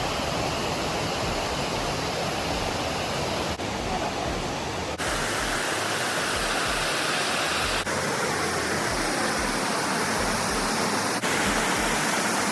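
Steady rushing water of a waterfall, a dense, even roar whose tone shifts abruptly a few times.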